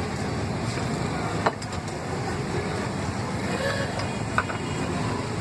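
Busy street ambience: a steady hum of road traffic, with a couple of sharp clicks or knocks.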